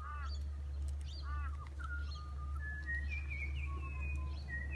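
Birds calling: a few short, harsh, arched calls, then a run of clear whistled notes sliding up and down, over a steady low rumble.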